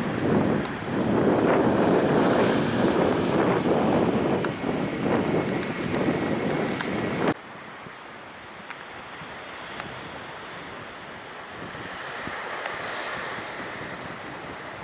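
Loud, uneven rushing of surf and wind buffeting the microphone on the beach. About halfway through it cuts off abruptly to a quieter, steady hush of wind and waves.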